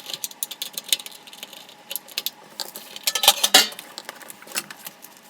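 Rapid clicks and clattering of hard plastic and metal parts as an LED shop light fixture is handled and pried apart, with a louder cluster of knocks about three seconds in.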